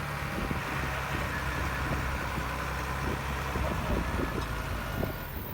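Heavy diesel earthmoving machine's engine running steadily at a low, even pitch, with scattered small knocks and rattles.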